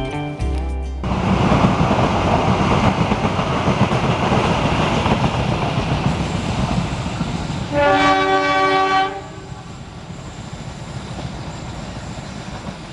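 A train passing close by, its wheels rolling loudly on the rails, with the diesel locomotive's horn sounding once, several pitches together for about a second, about eight seconds in. After the horn the noise drops to a quieter rumble.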